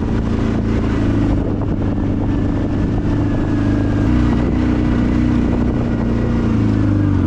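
Vehicle engines running steadily, their pitch shifting about four seconds in.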